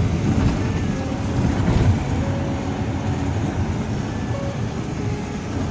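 Steady engine and road rumble of a moving tour vehicle, heard from inside the cabin.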